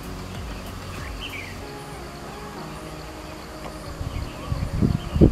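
A single short bird chirp gliding downward about a second in, over a steady outdoor background. Near the end come a few loud, low thuds on the microphone.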